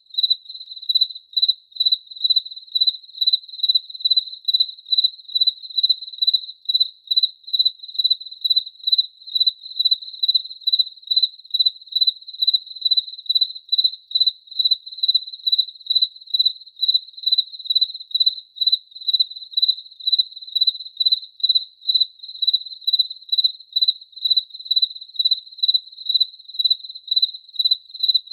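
A cricket chirping steadily: one high-pitched chirp repeated in an even, unbroken rhythm of about two to three chirps a second.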